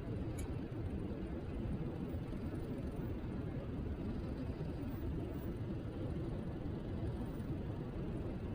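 Steady low rush of wind on the microphone mixed with tyre and road rumble from an electric kick scooter riding along at speed.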